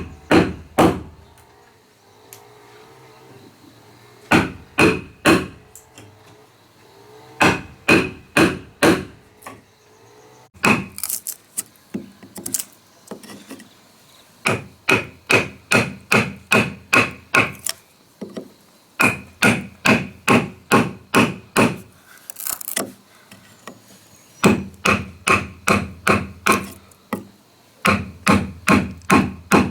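A hammer striking wood in quick runs of several sharp blows, about three to four a second, with short pauses between runs.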